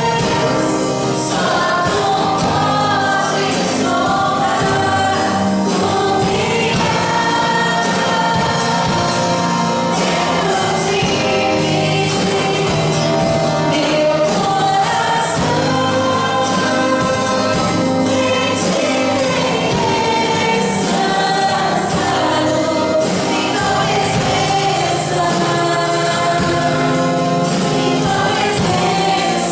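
Gospel worship song sung by a church choir and worship team, with band accompaniment and a steady beat.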